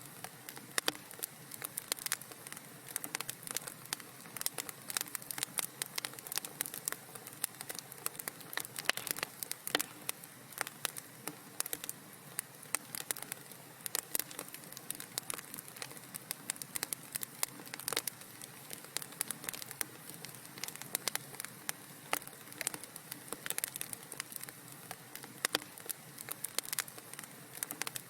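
Wood fire crackling in a fireplace: dense, irregular pops and snaps over a soft, steady hiss.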